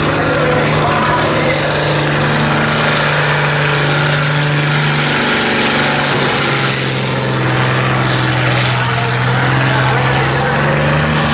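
Pulling tractor's diesel engine running loud and steady at high revs, its pitch stepping down to a lower steady note about halfway through.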